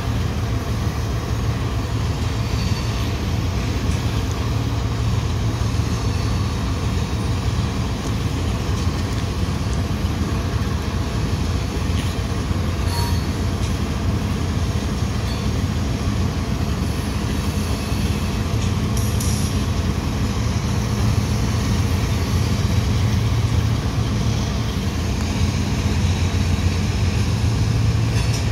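Loaded coal hopper cars rolling past on steel rails, a steady rumble of wheels with a low, even hum under it.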